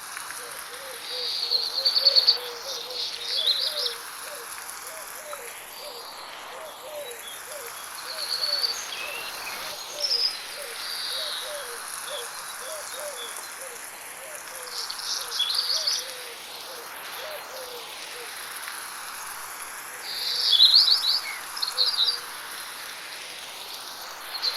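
Birds singing in bursts of high, quick chirping phrases every few seconds over a steady hiss of light rain, with a rapid run of short low chirps underneath throughout. The whole scene is processed as 8D audio, swirling around the listener.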